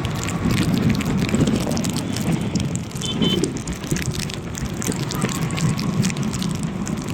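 Steady rain falling, a dense patter with a low rumble underneath.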